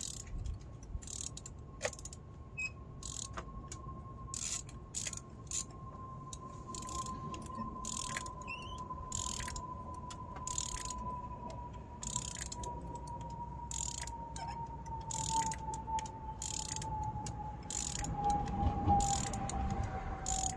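Socket ratchet clicking in irregular strokes as a spark plug is screwed down tight. A steady high whine slowly falls in pitch underneath.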